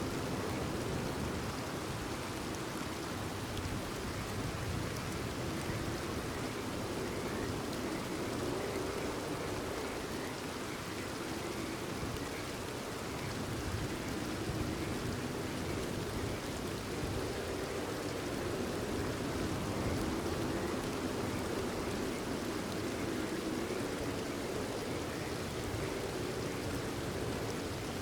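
Steady rain falling without a break, with a chorus of frogs calling underneath.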